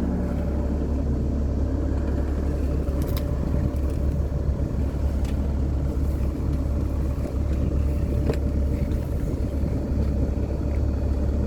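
Motorhome engine idling steadily, a constant low rumble, with a few light clicks over it.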